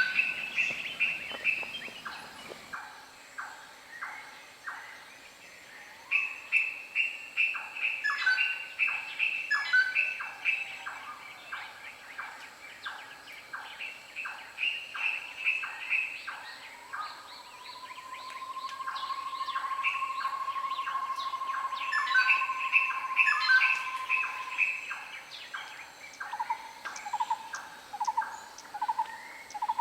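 Wild birds calling in rapid series of short, repeated chirping notes. About halfway through, a long, even whistle is held for several seconds, and near the end a quick run of lower notes comes in.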